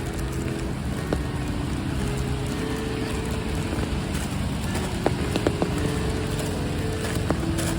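Steady rain falling, with a few sharper drop hits about five seconds in, under soft background music of long held notes.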